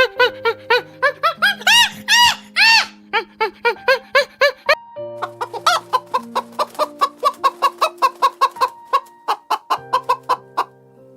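Chicken clucks in a quick rhythmic run, about three a second, set over music with long held notes. Two louder, longer squawks come about two seconds in.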